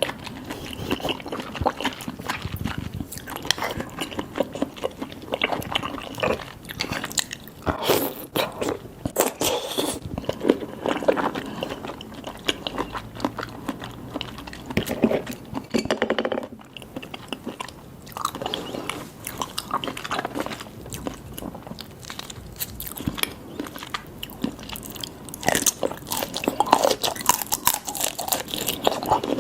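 Close-miked eating of seafood: repeated bites and chewing with crisp, crunchy clicks and wet mouth sounds, easing briefly about halfway through.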